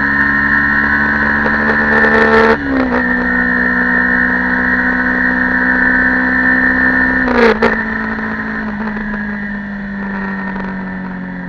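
Yamaha YZF-R15 V2.0's stock 149 cc single-cylinder engine running under way. Twice, a few seconds apart, there is a short click and the engine pitch drops as it shifts up a gear, and near the end the pitch slowly sinks as the bike slows.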